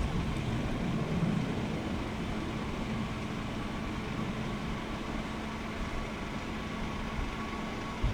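Steady rumble of jet aircraft engines, with a faint high whine over it.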